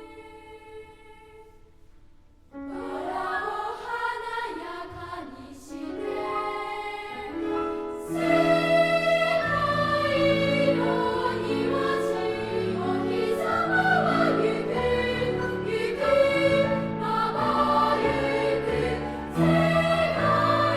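Children's choir singing in three parts. Soft, held singing gives way about two seconds in to a louder entry, and the sound swells fuller about eight seconds in.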